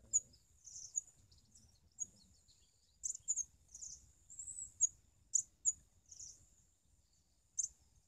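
Small birds chirping: about a dozen short, sharp, high-pitched chirps and brief calls at irregular intervals, the loudest around the middle, over a steady thin high-pitched tone.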